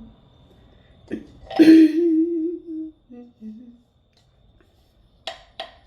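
A woman humming a slow wordless tune: a breathy start, one held, slightly wavering note, then two short lower notes. Two brief sharp sounds near the end.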